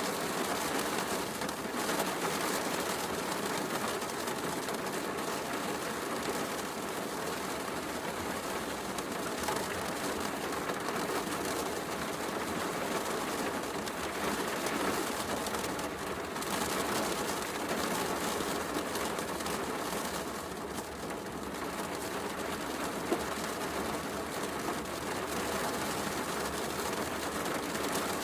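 Steady heavy rain mixed with a fireplace crackling, with one sharper pop late on.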